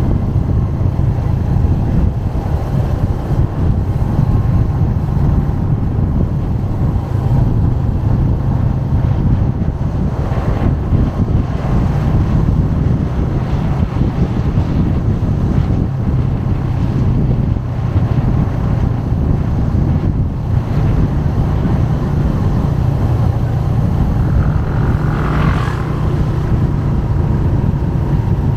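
Motorbike engine running steadily while riding, with wind buffeting the microphone and traffic around. A brief higher-pitched sound rises briefly near the end.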